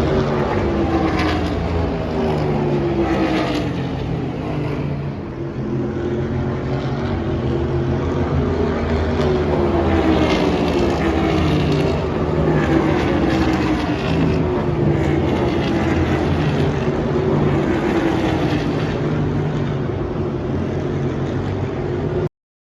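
NASCAR race cars at speed on the track, several V8 engines running hard, with each engine note dropping in pitch as a car passes, one after another. The sound cuts off suddenly near the end.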